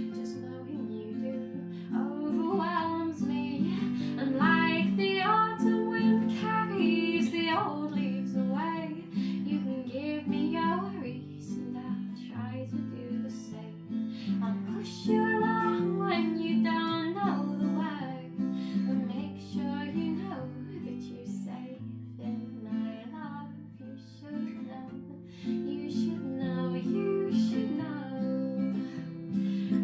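Acoustic guitar strummed in steady chords, with a woman singing over it in two long phrases.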